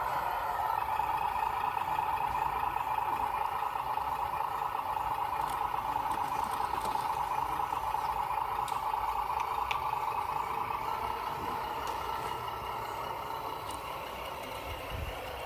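1/14 scale radio-controlled truck running, a steady mechanical engine-like sound that eases off slightly near the end.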